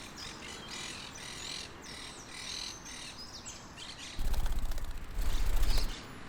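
Monk parakeets chattering in a run of short, repeated, high calls. About four seconds in, a much louder, fast rattling buzz with a deep rumble cuts in twice, with a short break between.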